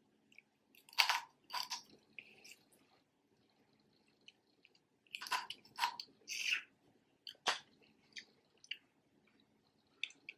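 Close-miked chewing and biting into snow crab legs, in short bursts with pauses between, and one sharp snap about three-quarters of the way through.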